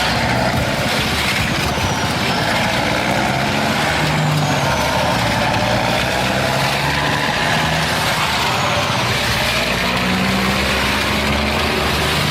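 Heavy farm vehicle engine running steadily, a dense mechanical noise at an even level.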